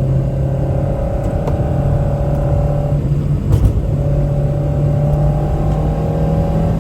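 Toyota Celica TA22's four-cylinder engine running at a steady speed. About three seconds in, the engine note breaks off briefly with a sharp click, then picks up again at a steady pitch.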